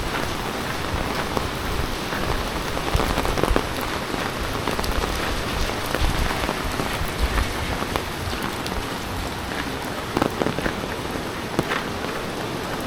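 Heavy rain falling steadily, with many sharp drops hitting close by.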